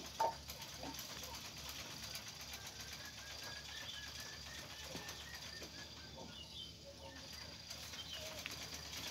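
Birds chirping, with a run of short, evenly repeated chirps in the middle, over faint pencil strokes on paper.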